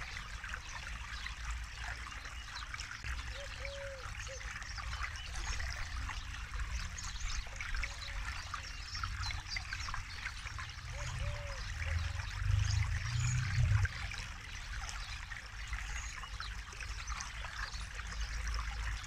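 Forest river flowing over rocks: a steady babbling, splashing rush of water, with a low rumble that swells briefly about twelve seconds in.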